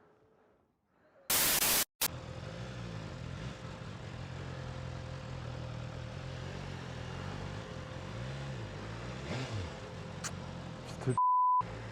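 BMW S1000RR's inline-four engine running at low revs under way, its note rising and falling, under steady wind and road noise. It comes in after a short, loud burst of noise a little over a second in, and a short high beep sounds near the end.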